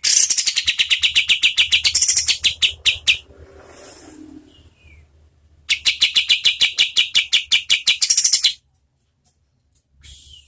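A kapas tembak bulbul singing its rapid-fire 'tembakan' song: two long trills of sharp notes repeated about ten times a second, each lasting about three seconds, with quieter calls between them and a short call near the end.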